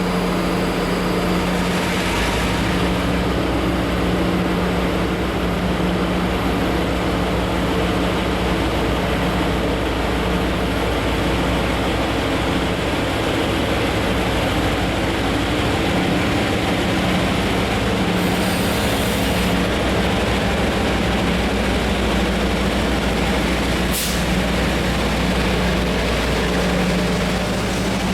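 Taiwan Railways Chu-Kuang Express train at a station platform, running with a steady hum and a constant low drone. A brief high hiss comes about 18 seconds in, and a sharp click about 24 seconds in.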